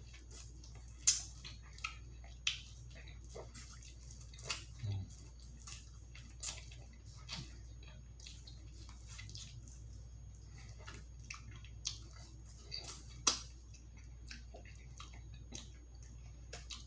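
Close-miked eating sounds: scattered wet mouth smacks and clicks of chewing, a few of them sharper, the loudest about a second in and about three-quarters of the way through.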